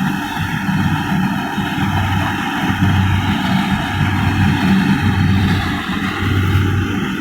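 Kubota rice combine harvester running, a steady engine hum that swells and eases every second or so over a constant mechanical noise.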